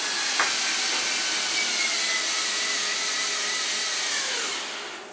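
An electric power tool's motor runs with a steady high whine and hiss for about four and a half seconds, then winds down, its pitch falling as it stops.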